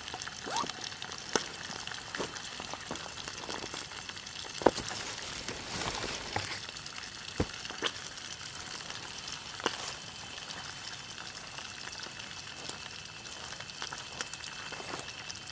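Eel frying in hot oil: a steady sizzle with several sharp spitting pops of oil, the loudest about five seconds in.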